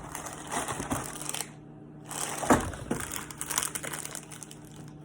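Crinkling and rustling of a cracker snack-pack wrapper as cheese crackers are handled, with a sharp knock about two and a half seconds in.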